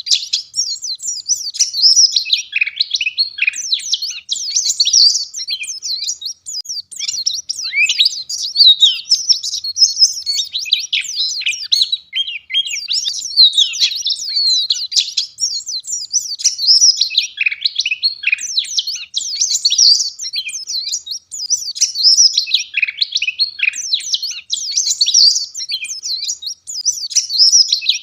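Wild white-eye (pleci ngalas) singing a fast, sharp, dense twittering song of high chirps and trills, phrase after phrase with barely a pause.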